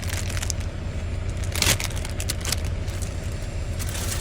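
Steady low drone of an idling truck engine heard inside the cab, with a few light clicks and one sharp clatter a little under two seconds in.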